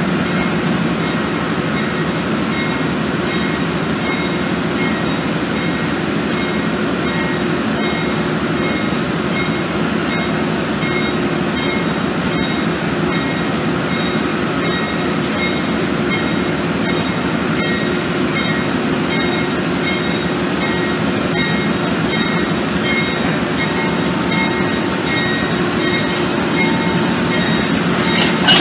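Amtrak passenger train, cab car leading, rolling slowly past at close range: a steady rumble of wheels and running gear with a faint high tone pulsing about twice a second above it. A brief sharp knock comes right at the end.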